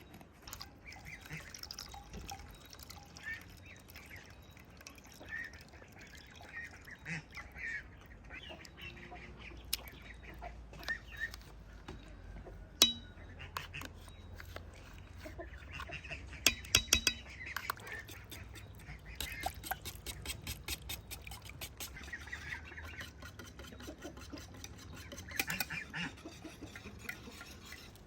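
Farmyard fowl calling on and off, with scattered sharp knocks and clicks; the loudest is a single knock about halfway through, followed a few seconds later by a quick cluster of clicks.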